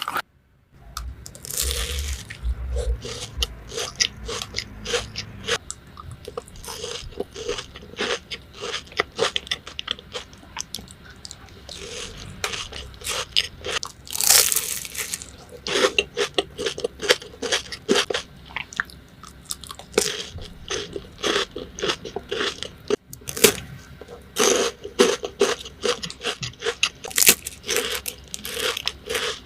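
Close-miked eating of Dubai chocolate: bites into the bar and chewing, its crispy kataifi pastry filling crunching in many quick, irregular crackles. There is a brief silent break just after the start.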